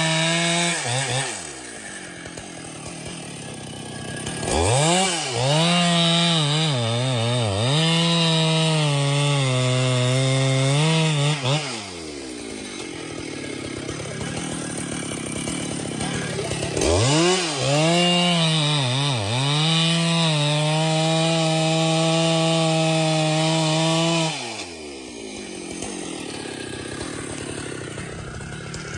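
Two-stroke chainsaw throttled up to full speed in two long runs, each opening with a few quick revs, its pitch sagging slightly as it bites into the wood, and dropping back to idle between and after the cuts.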